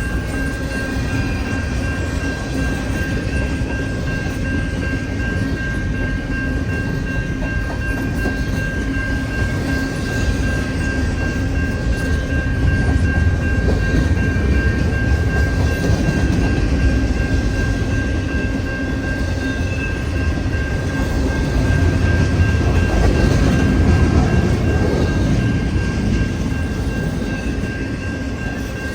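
A train rolling past with a continuous low rumble of wheels on rail and a thin steady high tone above it, growing louder through the middle as the cars go by.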